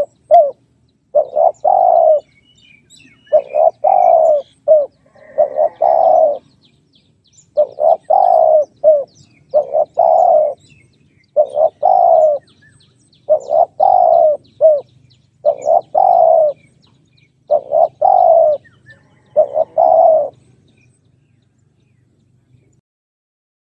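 Spotted dove cooing: a repeated phrase of a few short, low coos followed by a longer one, about every two seconds, ending around 20 seconds in.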